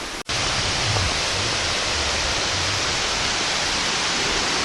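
A forest river rushing, a steady, even sound of running water. It cuts out for an instant just after the start.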